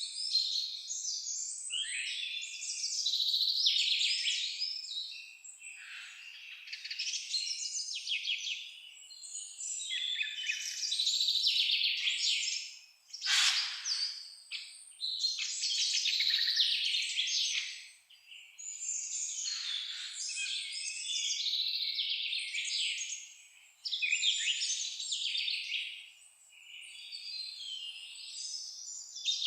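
Several songbirds singing and chirping at once, a continuous high-pitched chorus of overlapping trills and twitters that swells and fades every few seconds. There is one brief sharp sound about thirteen seconds in.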